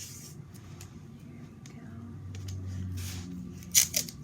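Tape being pulled off the roll and stuck down, with small crackles and rustles and a sharp tear near the end.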